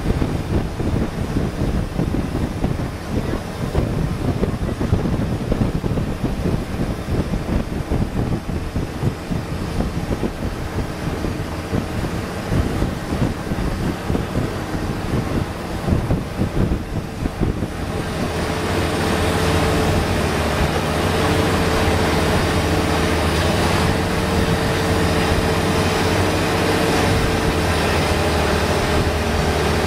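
Longtail boat engine running under way, with wind buffeting the microphone. About two-thirds through, the sound changes to a steadier, louder engine drone with a held tone.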